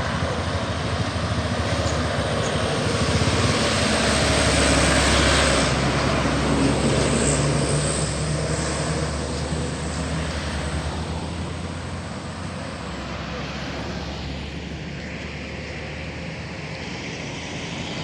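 Heavy truck's diesel engine running as it passes close by, growing louder to a peak about five seconds in and then slowly fading.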